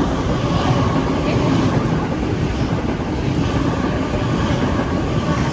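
Sydney suburban electric train running, a steady loud rumble of wheels and rails with a faint steady whine.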